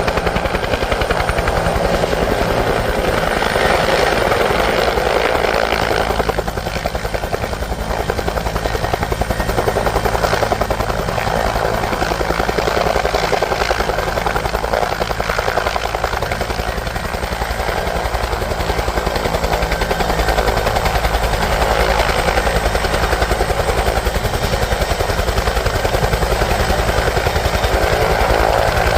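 Bell 212 twin-engine helicopter running, its two-bladed main rotor giving a fast, even beat over the engine noise, steady and loud with brief slight dips in level.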